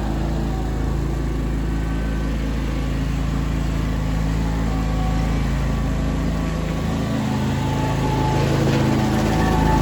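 John Deere X720 garden tractor's liquid-cooled two-cylinder Kawasaki FD750D EFI engine running steadily, with a brief dip in its low hum about seven seconds in and growing a little louder near the end.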